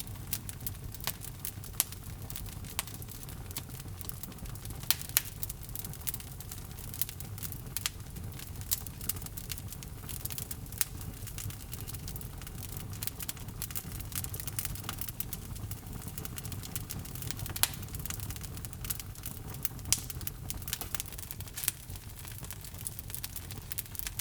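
Wood log fire burning in a fireplace: a steady low roar of flame with frequent sharp crackles and pops from the burning logs.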